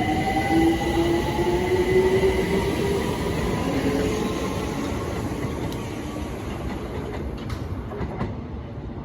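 London Overground Class 378 electric multiple unit pulling away from the platform: its traction motors whine in a slowly rising pitch over the rumble of the wheels, and the sound fades gradually as it leaves.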